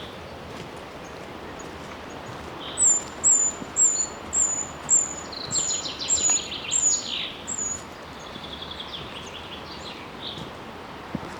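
Songbirds singing: one repeats a short, high, slightly falling note about twice a second for some five seconds, while another sings lower rapid trills that overlap it and run on after, over a steady background hiss.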